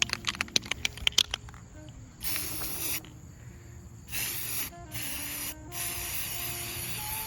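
An aerosol can of pink spray paint being shaken, its mixing ball rattling rapidly for about the first second and a half. It is then sprayed in four hissing bursts, the last one the longest.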